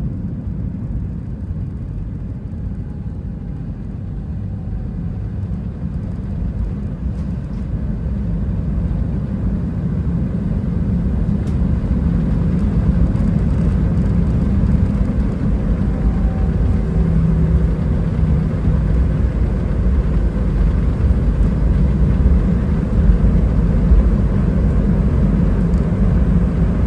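Steady low rumble in the cabin of an Airbus A320-212, from its CFM56 engines and airframe, growing gradually louder.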